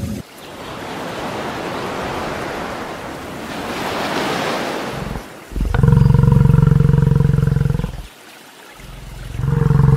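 Small waves washing in on a sandy beach, then a bison giving two long, low bellows: the first about two seconds long, the second shorter near the end.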